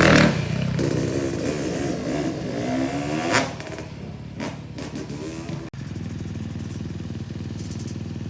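Freestyle motocross stunt bike engines revving, the pitch rising and falling over the first few seconds. After a break about two-thirds of the way in, an engine runs with a steady drone.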